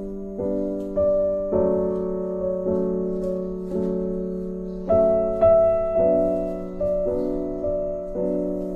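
Gentle background piano music, a new note or chord struck about once a second and left to ring and fade.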